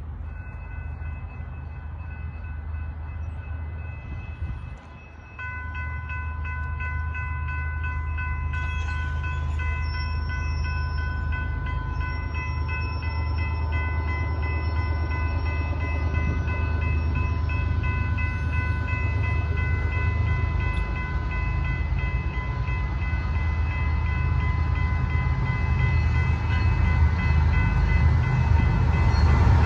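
Diesel locomotive's air horn sounding a long, nearly unbroken multi-tone blast, with a short break about five seconds in, over a low engine and rail rumble that grows louder as the train approaches.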